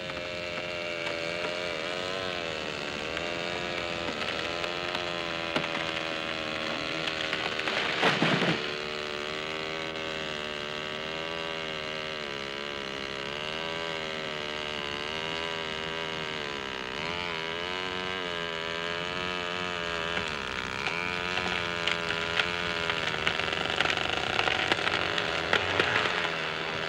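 Power saw (chainsaw) engine running steadily, its pitch rising and falling as it cuts through a fallen tree trunk. A short loud noise breaks in about eight seconds in.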